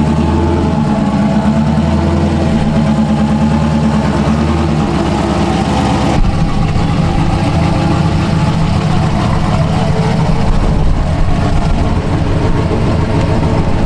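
Corvette C6 V8 fitted with a BTR Stage 3 camshaft and aftermarket headers, X-pipe and dual exhaust, idling loudly. Its sound changes about six seconds in, turning choppier and deeper.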